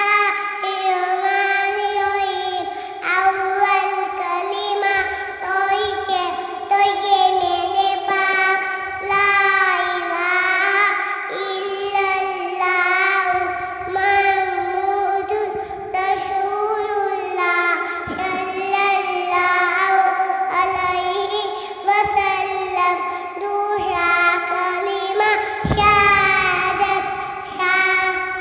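A young girl singing a hadith as a melodic chant, one unaccompanied voice holding long, wavering notes almost without a break.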